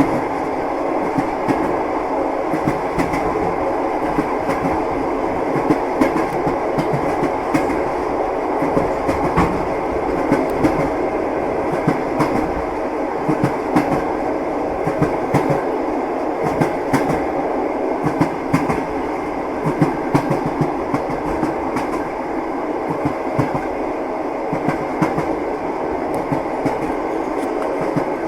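Passenger train running along the track, a steady rumble with the clickety-clack of the wheels over the rail joints heard from inside the carriage.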